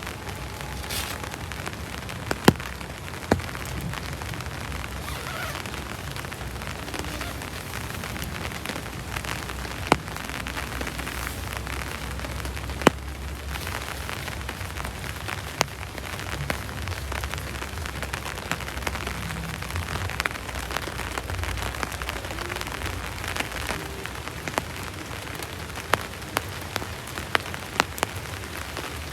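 Steady rain falling, with scattered sharp taps of heavier drops striking a surface, several of them close together near the end.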